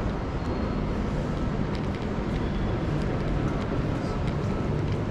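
Suburban electric train running, a steady rumble and noise of wheels on the track.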